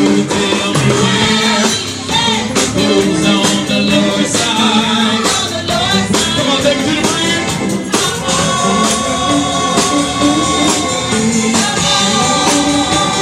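Live gospel music: singing with a band, tambourine and drums keeping a steady beat.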